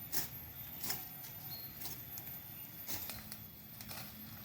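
Footsteps walking at an unhurried pace, a step roughly every second.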